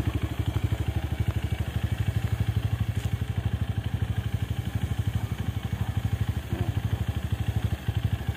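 Honda CRF150L's single-cylinder four-stroke engine idling steadily on the stand, an even, fast pulse of exhaust beats.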